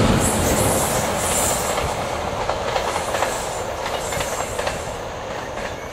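A freight train of autorack cars rolling past, its wheels clacking over the rail joints. The sound fades steadily as the end of the train moves away.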